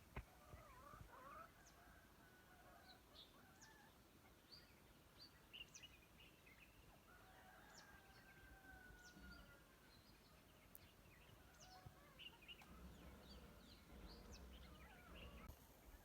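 Faint birdsong: many short, high chirps from several birds, with a few longer whistled calls about a second in and again around the middle.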